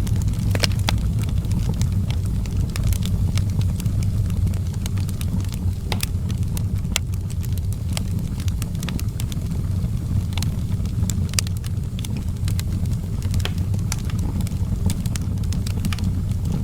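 Outdoor wood fire burning with a steady low rumble and frequent irregular sharp crackles and pops.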